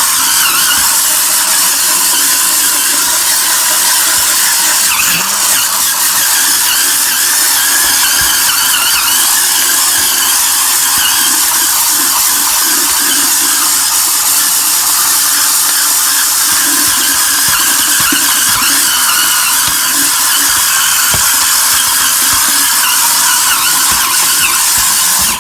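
Cordless spin scrubber's dome brush spinning on a wet sink, a steady motor whir with squealing as the bristles scrub the surface.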